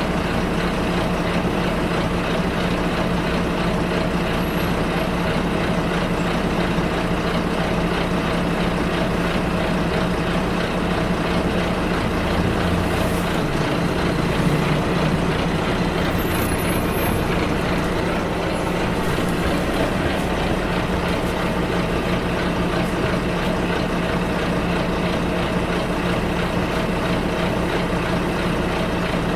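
Riding inside a bus: the engine drones steadily over road noise. About halfway through the engine note changes briefly, and faint high squeaks follow soon after.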